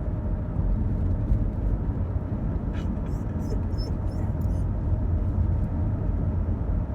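Steady low road and engine rumble heard from inside a moving minivan.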